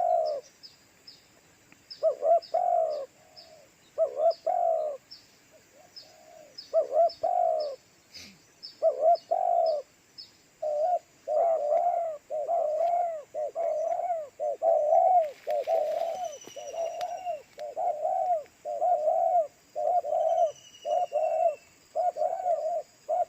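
Spotted dove cooing: repeated rolling call phrases, at first in separate groups and from about halfway on in an almost unbroken run. Faint high chirps of another small bird run through the first half.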